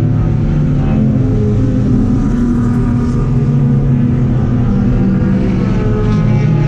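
Race car engine running at speed on a circuit, a steady loud drone whose pitch shifts a little up and down with the throttle.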